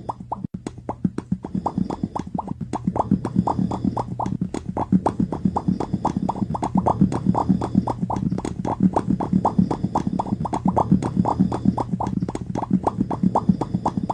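A rapid, uneven string of short pops, several a second, over a steady low background tone.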